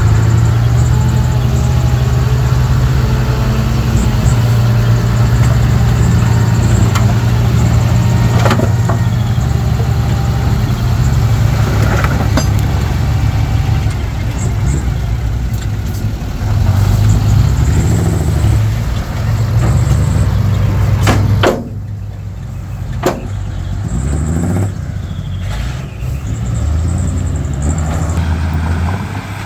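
Diesel engine of a Komatsu D31P crawler bulldozer running steadily under working load, with a few sharp metal clanks. About three-quarters of the way through it drops back to a quieter, lower run.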